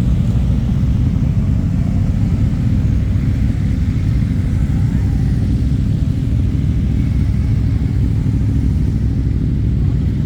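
Motorcycle engines running at low revs, a steady low rumble with no sharp revving or passes.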